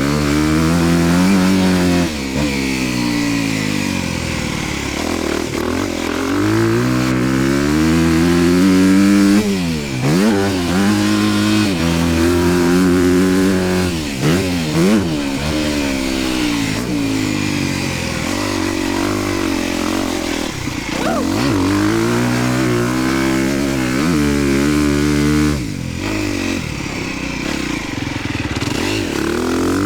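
Dirt bike engine being ridden hard on a motocross track, its pitch rising under throttle and dropping back again and again as the rider opens it up and rolls off through the turns and jumps.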